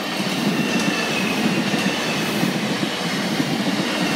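Class 458 electric multiple unit passing at steady speed, its wheels running on the rails with a continuous rumble and a faint high whine.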